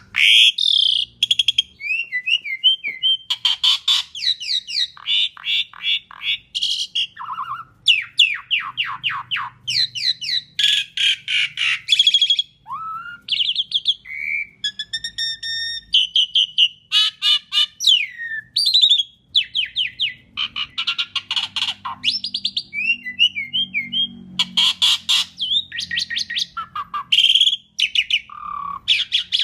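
Asian pied starling singing a long, varied song almost without pause: rapid chattering trills, sliding whistles and harsh squawky notes, one phrase running into the next.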